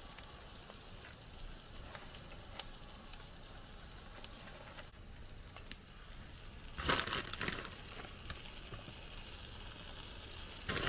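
Breakfast food sizzling as it fries in a pan, a steady hiss with faint crackles. About seven seconds in comes a short, louder burst of crinkling and rustling.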